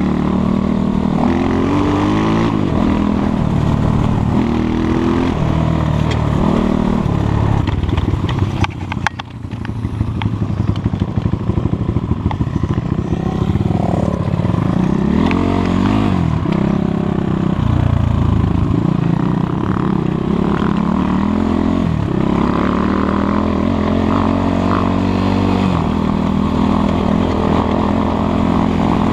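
Enduro motorcycle engine being ridden, its revs rising and falling again and again with the throttle. About nine seconds in the throttle is briefly shut and the engine note drops away with a rattle before it picks up again.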